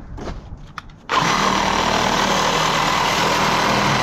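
A few light clicks, then about a second in a reciprocating saw starts and runs steadily at full speed, cutting through metal scrap from an air-conditioner unit.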